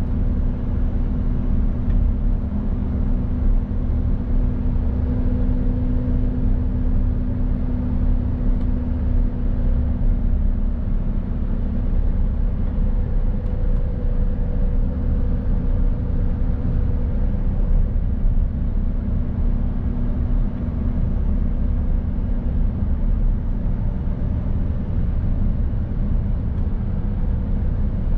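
Mercedes-Benz Actros truck's diesel engine running steadily as the truck drives, with road and tyre noise; a low drone that shifts a little in pitch a few times.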